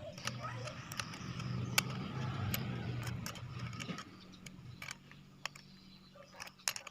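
A steady low engine hum, louder for the first four seconds or so and then fainter, with scattered sharp clicks and rattles of small parts being handled.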